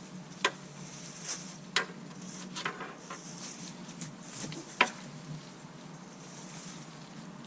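A few sharp clicks and light knocks, spaced a second or so apart, over a steady low background noise.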